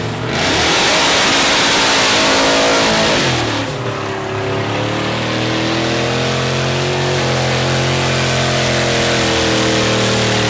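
Mud truck engine running hard and revving, its pitch rising and falling. A loud rush of noise lasts through roughly the first three and a half seconds.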